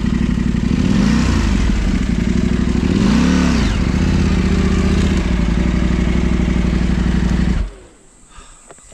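Off-road motorcycle engine running hard under load, revving up and down twice in the first few seconds, then cutting out abruptly about seven and a half seconds in.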